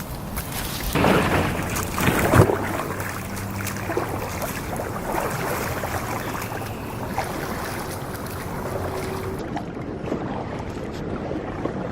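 Kayak on a pond: paddle splashing in the water, louder for a moment about a second in, then steadier water noise with small drips and knocks.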